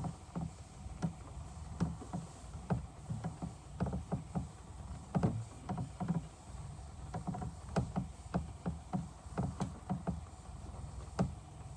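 A rag wiping a wet-sanded plastic headlight lens: irregular rubbing strokes and soft knocks over a steady low rumble.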